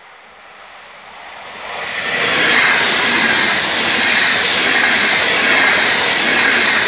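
Passenger train approaching and rushing past at speed: the noise swells over the first two seconds, then a steady loud rush of wheels and air as the carriages go by.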